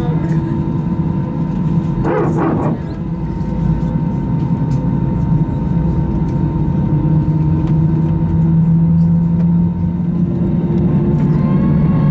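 Steady hum inside an Airbus A320 cabin on the ground around pushback, with several steady tones over a low rumble; about eleven seconds in the tones step up slightly in pitch.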